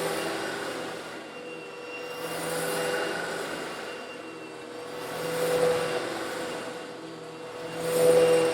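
Old Eureka vacuum cleaner running steadily while sucking up small coarse stone granules, with a constant motor hum and whine; the sound swells and eases about every two to three seconds.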